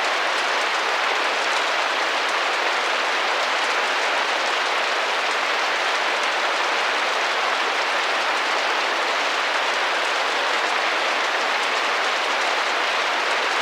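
Steady rain pattering against a glass window, a dense, even hiss of many small drops with no single hits standing out.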